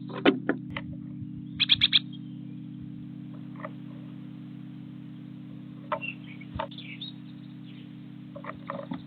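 Small bird chirping at a feeder: a quick run of four high chirps about two seconds in, then scattered short ticks, over a steady low hum.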